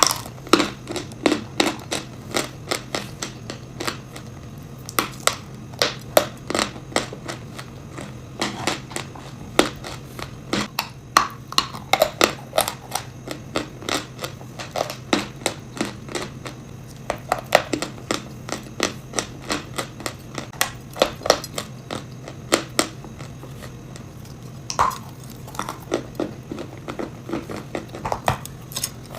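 Close-miked crunching of chalk and clay mixed with nuts, bitten and chewed in a run of sharp crunches, about two a second, with brief pauses. A steady low hum sits underneath.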